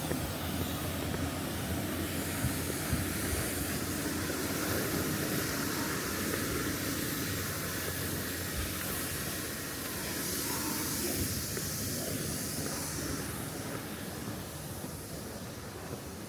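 Steady rushing hiss of flowing stream water, with a faint low hum underneath; it eases slightly near the end.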